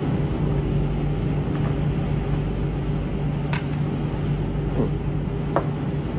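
Steady low drone and hum of a warship's machinery running, with a few brief faint sounds over it.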